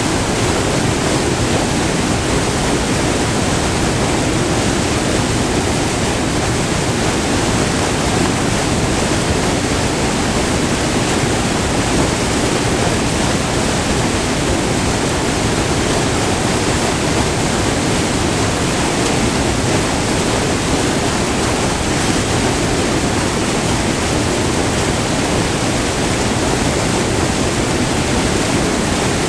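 Multi-tiered river waterfall rushing, recorded up close: a loud, steady roar of white water that does not change.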